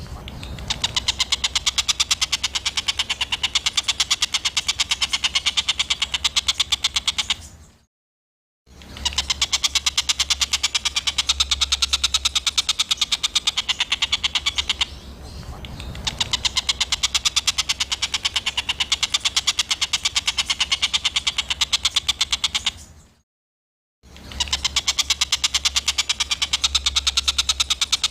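A songbird's harsh rapid-fire 'tembakan kasar' call: a fast, even train of dry clicking notes many per second, given in long bursts of about seven seconds with short silent breaks between.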